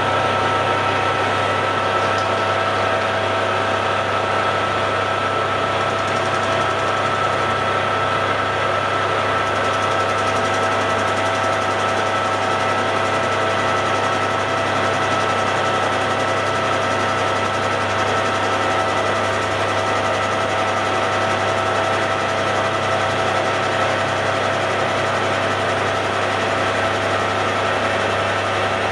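Hare and Forbes AL335 metal lathe running steadily, its spindle set at about 640 rpm: an even whine from the gearing over a low motor hum, with no change.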